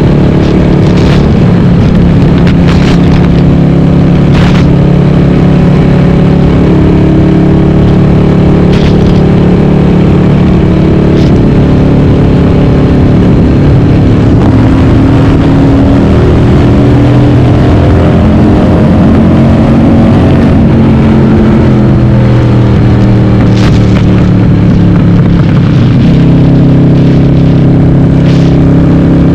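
Harley-Davidson Sportster V-twin, bored to 1200, running through Cobra Speedster 909 pipes with the dB killers removed, ridden on the road. Its note rises and falls with the throttle around the middle and settles to a new steady pitch near the end.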